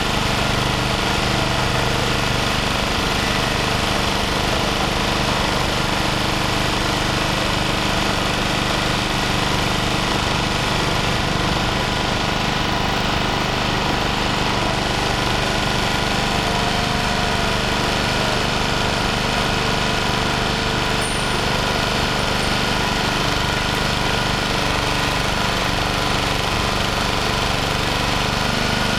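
An engine idling steadily, its note unchanging throughout.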